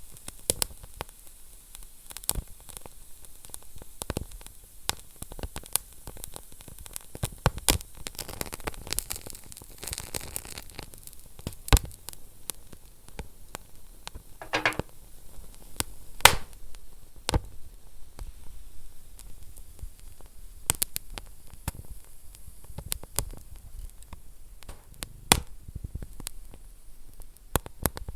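Fire burning in a fireplace: irregular crackles and sharp pops over a soft steady hiss. A couple of pops stand out louder, and there is a brief hissing whistle a little past the middle.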